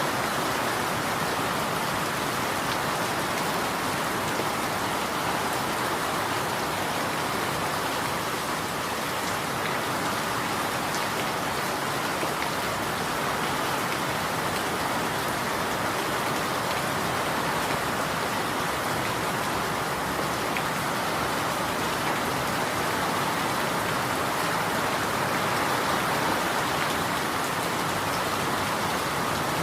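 Steady rain falling on a surface, an even hiss of drops with faint scattered patters.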